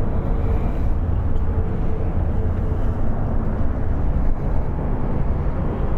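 Harley-Davidson 103-cubic-inch fuel-injected Twin Cam V-twin idling with a steady low rumble.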